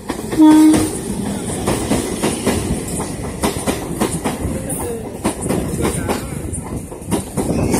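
A train gives a short horn blast about half a second in, then passes close by at speed, its wheels clattering steadily over the rail joints.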